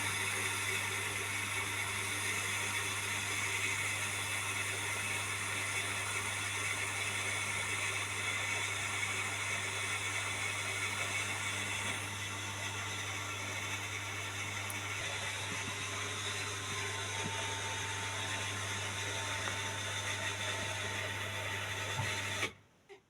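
A household electric motor appliance running steadily with a low hum and a layered whine, switched off abruptly near the end.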